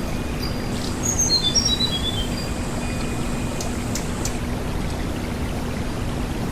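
Tledekan gunung (sulingan) bird singing: about a second in, a quick falling run of short, high whistled notes, with fainter high notes around it, over a steady hiss like running water.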